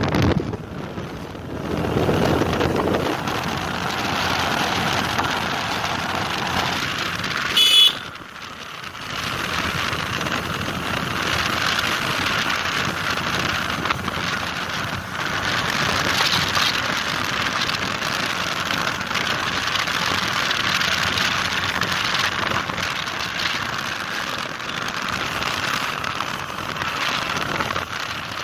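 Steady rush of wind and road noise from riding a Honda Dio scooter, with a brief loud beep about eight seconds in.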